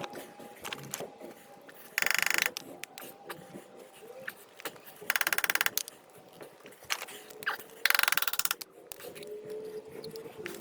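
A ratcheting hand tool clicking in three short bursts of rapid, even clicks, each about half a second long, a few seconds apart, with faint scraping and handling noises between them.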